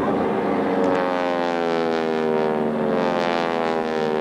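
Stearman biplanes' radial engines droning overhead, the pitch slowly falling as the planes pass.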